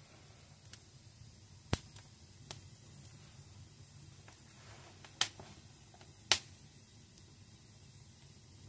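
Wood burning in a fireplace, crackling with a few sharp pops, three of them loud, over a faint steady low hum.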